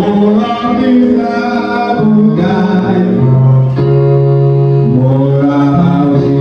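Church worship music: singing over a keyboard, with held low bass notes that change every second or two.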